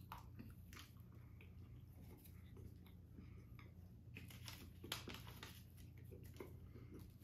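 Faint chewing of thick dark chocolate, with small scattered clicks and crackles, over a steady low hum; one sharper click about five seconds in.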